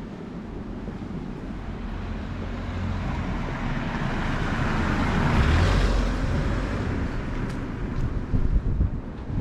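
A vehicle passing on the street, its tyre and engine noise swelling to a peak about six seconds in and then fading, with wind buffeting the microphone.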